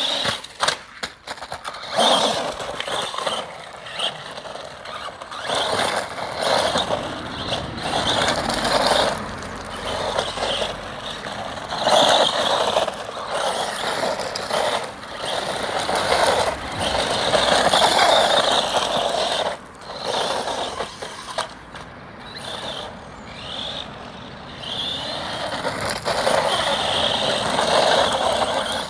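Small electric radio-controlled cars driving, their motors whining up and down with the throttle in repeated runs, with the rush of tyres on the ground.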